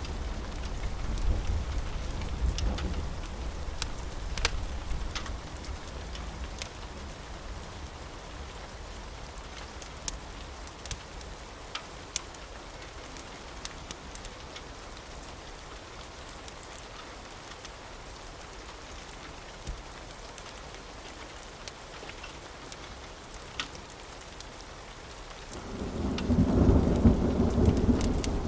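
Steady rain with thunder: a low rumble fades out over the first few seconds, leaving an even hiss of rain with scattered sharp ticks, and then a loud roll of thunder swells in near the end.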